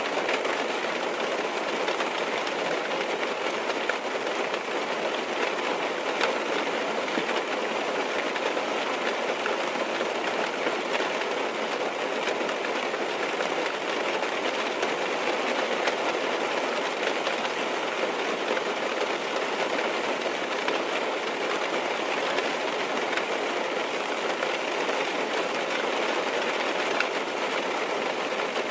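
Steady rain falling on a car's roof and windows, heard from inside the car: an even hiss with faint scattered drop ticks.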